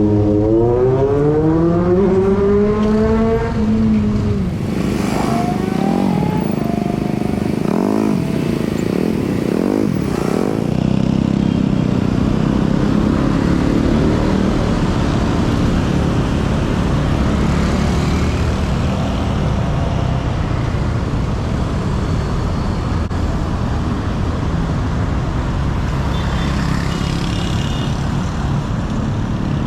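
City street traffic heard from a bicycle. A motor vehicle's engine revs up as it accelerates close by in the first few seconds, then gives way to a steady rumble of traffic with a few brief clatters.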